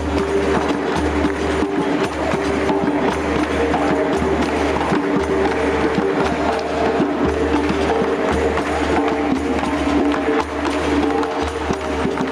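Live capoeira music: hand percussion and drum playing a steady, fast rhythm over held tones.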